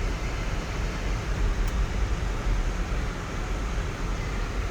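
Steady in-cabin road noise from a 2004 Lexus GX 470 driving along: a low rumble of tyres and drivetrain under a constant hiss.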